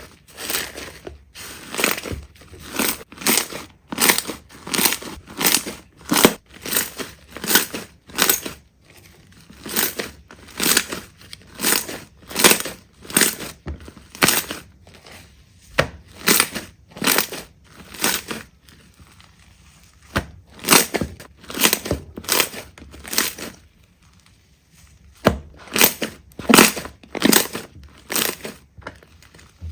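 Slime being squeezed and pressed by hand: a run of short squishing sounds about two a second, with a couple of brief pauses.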